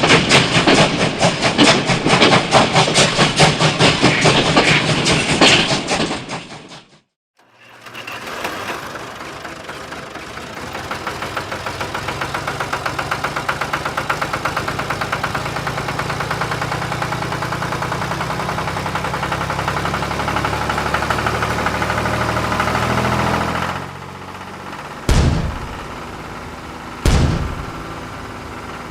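A small engine running with a fast, rattly beat that cuts off suddenly about seven seconds in; then an engine running steadily for about sixteen seconds, followed by two sharp knocks about two seconds apart.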